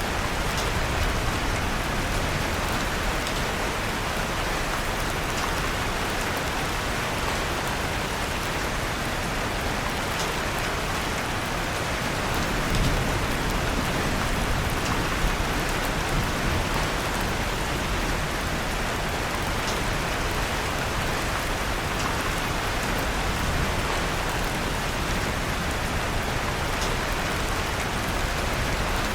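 Steady rain falling, with faint scattered crackles of a wood fire in a fireplace.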